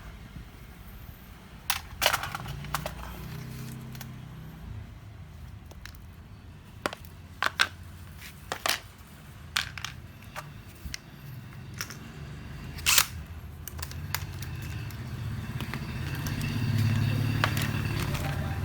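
Scattered sharp clicks and knocks of small hard parts being handled, irregular and a second or more apart, over a low hum that grows louder near the end.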